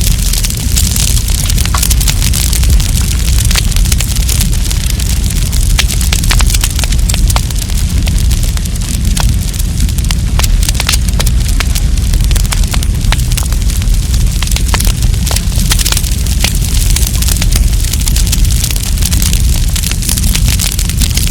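Wood campfire burning, crackling with many irregular sharp pops over a steady low rumble of the flames.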